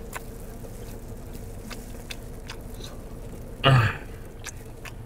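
Chewing with faint mouth clicks, and one short voiced sound from the throat about three and a half seconds in, over a steady low hum inside a car cabin.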